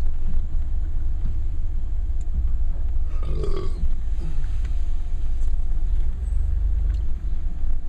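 Car engine idling, a steady low rumble heard from inside the closed cabin, with one brief short sound about three and a half seconds in.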